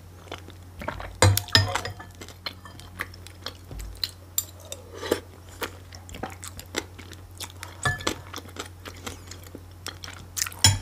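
Close-miked chewing of okroshka, a cold soup of chopped vegetables, with small crunches and a metal spoon clinking against a glass bowl again and again.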